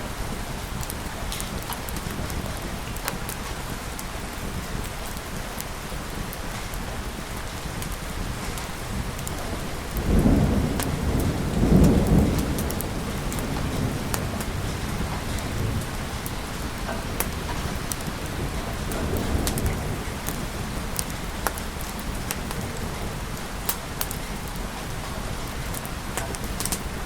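Steady heavy rain, with a roll of thunder starting about ten seconds in and rumbling for about three seconds, then a fainter rumble near the twenty-second mark. Scattered sharp ticks sound over the rain.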